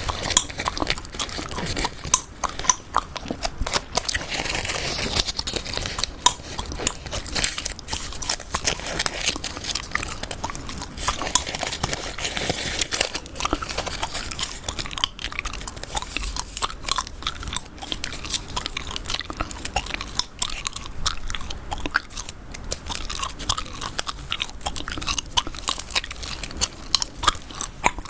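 Chewing gum close to a sensitive microphone: a dense, irregular run of small wet clicks and smacks.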